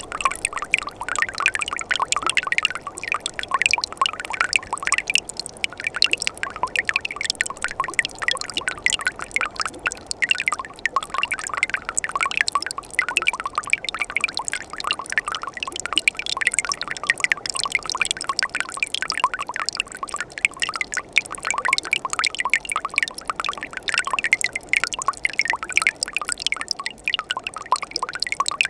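Winter mountain stream flowing and splashing among rocks and ice, a steady dense babble of small splashes and drips.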